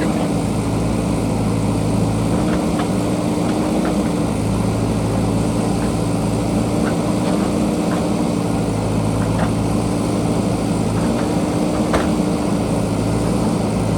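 JCB backhoe loader's diesel engine running steadily, with a few light knocks scattered through it.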